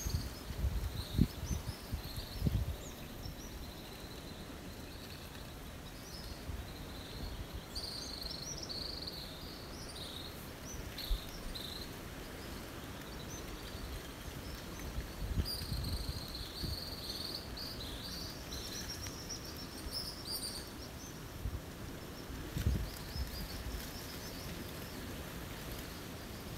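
Small birds chirping: many short high chirps in quick runs, thickest in the middle stretch. Low rumbles of wind on the microphone near the start and again near the end.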